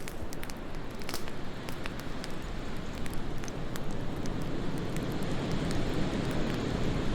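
Wood fire crackling with sharp pops, busiest in the first two seconds, over a steady low rumble of wind that swells in the second half.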